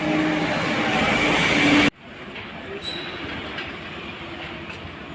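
Loud, steady vehicle noise that cuts off abruptly about two seconds in, leaving a much quieter background.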